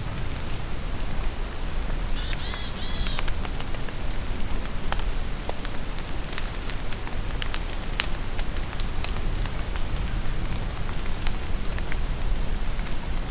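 Steady rain falling in a forest, with many individual drops tapping. A bird gives a short burst of rapid calls about two seconds in, and faint high chirps come and go.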